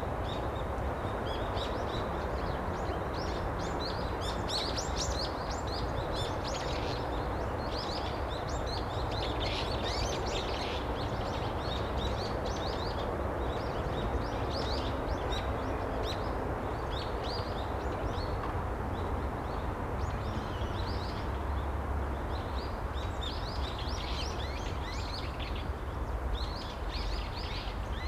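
Small birds chirping in quick, short high notes, with pauses now and then, over steady background noise.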